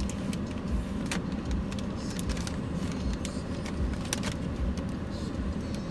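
Paper sandwich wrapper crinkling and rustling in short, scattered bursts as it is opened by hand, over a steady low hum inside a car cabin.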